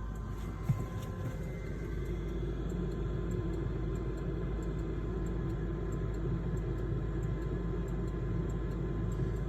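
Home furnace running with a steady low hum, its blower still going after the burner has shut off, with a light, regular clicking over it. One sharper click comes about a second in.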